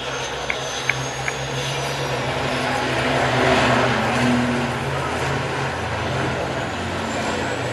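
Race truck engines passing on the circuit: a dense engine noise that swells to a peak about halfway through and then eases off. Three light clicks come in the first second and a half.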